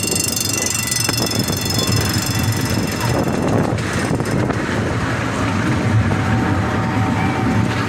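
Miniature ride train running steadily along its track, a constant low rumble and rattle of the moving cars.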